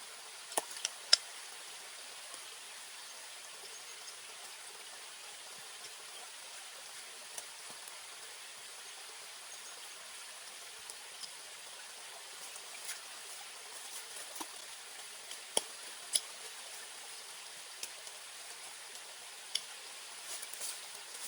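Campfire crackling: a steady hiss broken by sharp, scattered pops, with a loud pop about a second in and two more a little past the middle.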